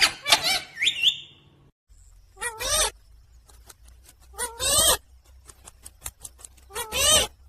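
Pet parrot calling: a run of quick whistled chirps with gliding pitch in the first second or so, then three loud calls with a wavering pitch, about two seconds apart, with faint clicks between.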